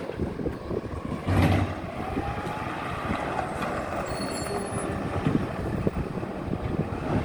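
Garbage truck running, with a short loud hiss about a second and a half in, followed by a faint rising whine.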